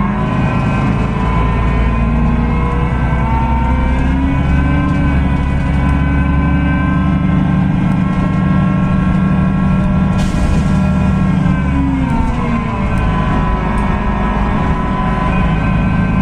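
Solaris Urbino 18 hybrid bus's Cummins ISB6.7 diesel engine and hybrid drive running under way, with a whine that climbs over the first few seconds and holds steady. The whine drops as the bus slows about twelve seconds in, then climbs again near the end, over a steady low rumble.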